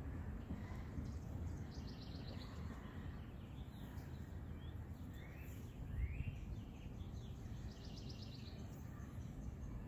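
Birds chirping outdoors, with a quick run of rapid notes about two seconds in and again near the end, and a couple of rising chirps in between, over a low steady rumble on the microphone.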